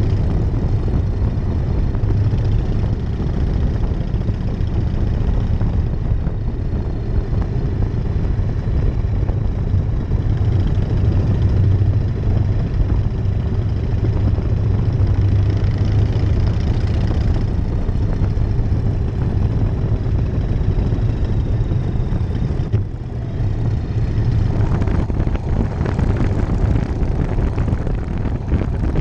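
1999 Harley-Davidson Night Train's V-twin engine and exhaust running steadily under way, with wind rush. The engine briefly eases off about three-quarters of the way through, then picks up again.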